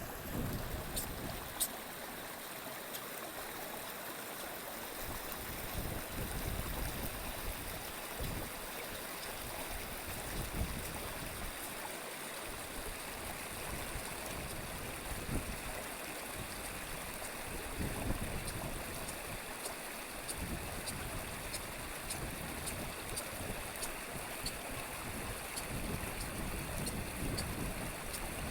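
Mountain river water running steadily.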